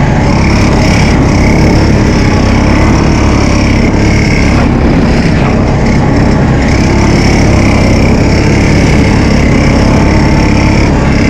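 Honda 350's engine running steadily and loud while being ridden, heard close up.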